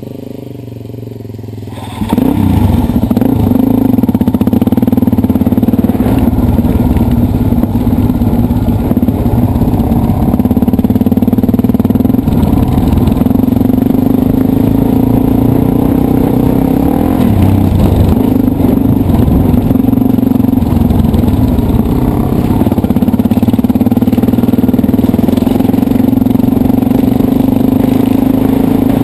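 Dirt bike engine running under way. After a quieter first two seconds it jumps loud and holds a fairly steady note, with brief dips and rises in revs now and then.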